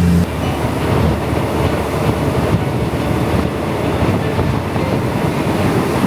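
Passenger train running along the track: a steady rumble of wheels on rails.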